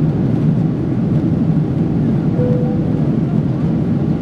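Steady cabin noise of a Boeing 777-300 airliner in flight: a continuous low rush of airflow and engine noise. A short, faint steady tone comes in a little past halfway.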